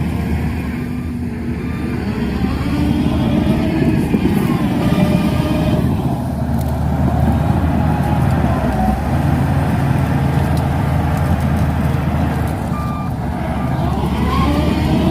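Diesel engine of a Shantui DH17C2 bulldozer running under load, its pitch rising and falling several times as the machine works.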